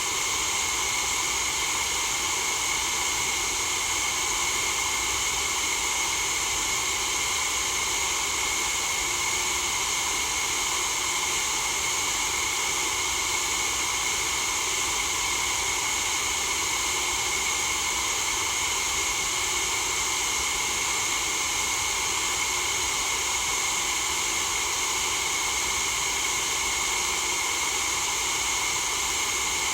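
Steady white noise: an even, unbroken hiss with no change in level, brightest in the upper range.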